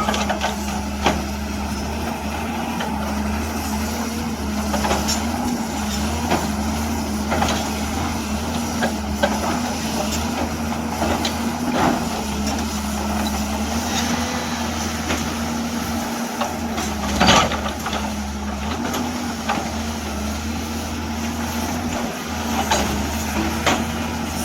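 Hyundai excavator's diesel engine running steadily, with scattered sharp knocks and clanks of rock or steel, the loudest about two-thirds of the way through.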